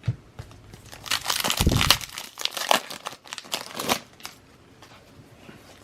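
Foil wrapper of a Panini Donruss basketball card pack crinkling and crackling as it is torn open, for about three seconds, followed by a few faint clicks of cards being handled.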